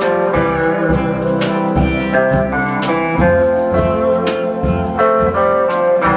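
Swing band playing an instrumental passage: a melody moving over chords, with regular drum and cymbal hits keeping time.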